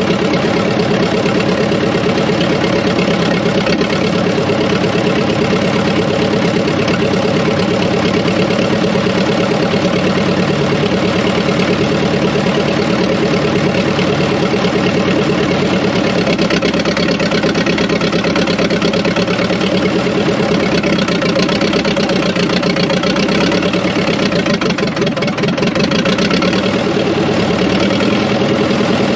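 An engine running steadily at low speed, with a slight dip in loudness about three-quarters of the way through.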